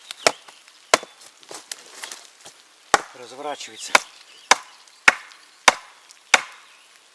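Axe blows striking wood, about eight sharp hits, coming steadily about every half-second in the second half.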